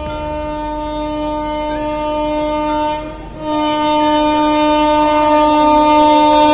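Locomotive horn sounding a long, steady blast that breaks off briefly about three seconds in, then sounds again louder.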